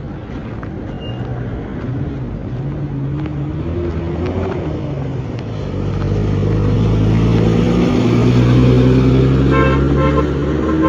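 Motor vehicle engine running and getting louder about halfway through, with a few short car-horn toots near the end.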